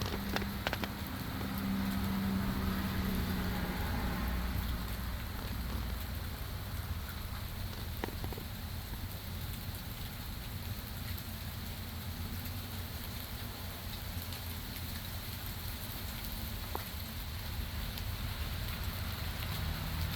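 Steady rain falling and pattering on surfaces, with a few faint drips. A low steady hum sits under it for the first few seconds and fades out about four seconds in.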